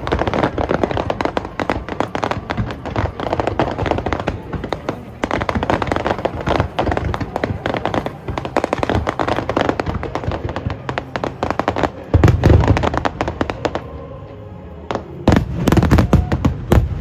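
Fireworks display at close range: a dense run of rapid pops and crackles from many shells bursting together, with heavy booms about twelve seconds in and again after a brief lull near the end.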